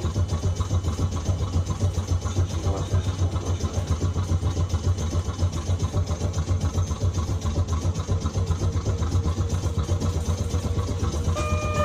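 Nagasaki Electric Tramway 370-series streetcar heard from inside, with a steady low hum and an uneven pulsing rumble as it runs. Near the end a clear pitched tone starts, the kind of onboard chime that leads into an announcement.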